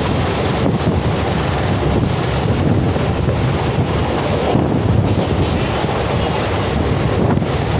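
Mumbai suburban local train running along the track: a steady, loud rumble of the moving carriage, with wheels clicking over the rails.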